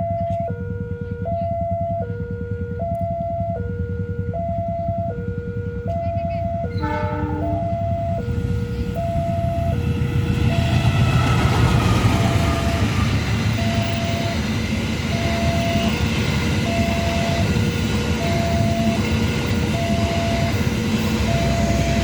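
A two-tone warning alarm alternates steadily while the Gaya Baru Malam Selatan passenger train runs through the station at speed. From about ten seconds in, the train's loud rumble and rushing wheel-and-rail noise build up and carry on over the alarm.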